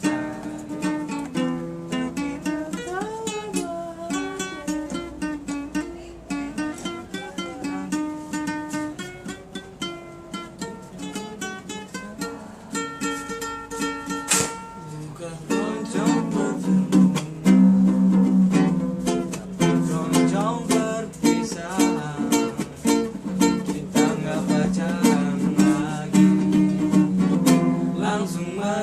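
Singing over a strummed small stringed instrument playing chords, an informal song accompaniment. The playing and singing grow louder about halfway through.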